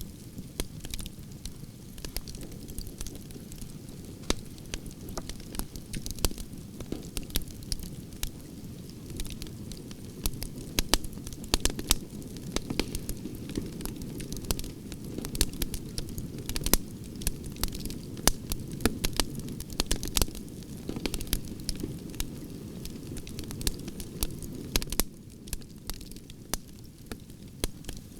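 Wood branches burning in a campfire: a steady low rush of flames with frequent sharp crackles and pops, busiest in the middle and thinning out slightly near the end.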